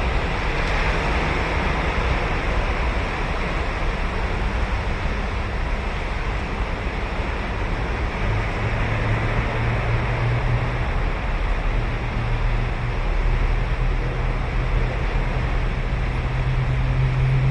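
Ocean surf washing onto the beach in a steady, continuous rush. About halfway through, a low engine hum comes in and grows louder near the end.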